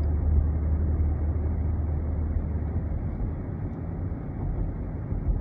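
Steady low rumble of a car on the road, engine and tyre noise heard from inside the cabin.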